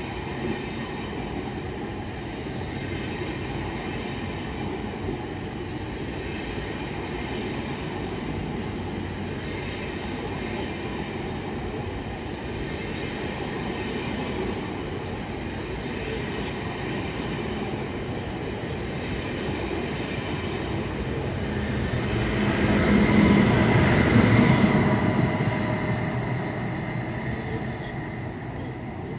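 ICE high-speed train rolling past on the track: a steady rumble of coaches and wheels, swelling about two-thirds of the way through with a high whine as the power car goes by, then fading as it pulls away.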